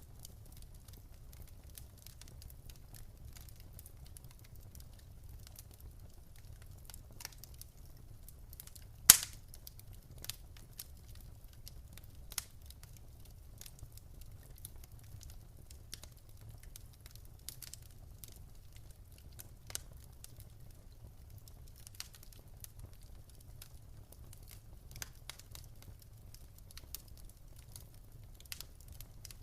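Wood fire crackling in a fireplace: scattered small snaps over a low steady rumble, with one loud pop about a third of the way in and a few smaller pops after it.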